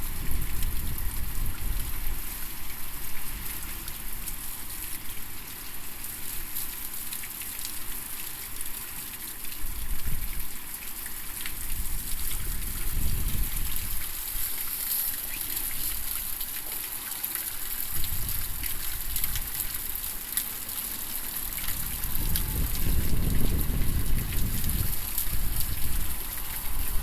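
Heavy typhoon rain and running, splashing water in a steady hiss, with gusts of wind buffeting the microphone in surges near the start, around the middle and through the last third.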